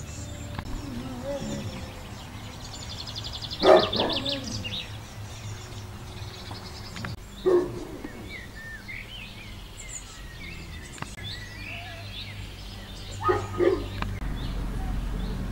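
Songbirds singing outdoors, including one rapid high trill and scattered chirps. Three short, louder, lower sounds stand out, the loudest a few seconds in.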